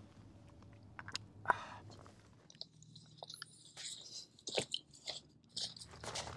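Someone chewing and biting into food close to the microphone, with irregular crunches and mouth clicks over a low background hum.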